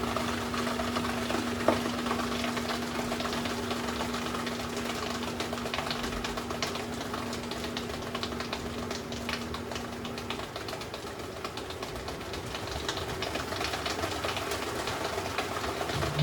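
LG WM6700HBA front-load washer running with calculators tumbling in the drum: a rapid, continuous clatter of hard plastic over the machine's running noise. A steady hum stops about ten seconds in.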